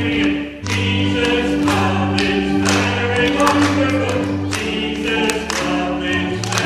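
A group singing a song with instrumental accompaniment: a bass line moving about once a second under a steady beat of roughly two strokes a second.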